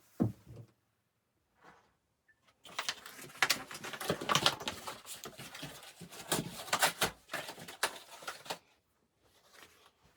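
A short low thump, then about six seconds of dense rustling and clicking, like objects being handled or shifted close by.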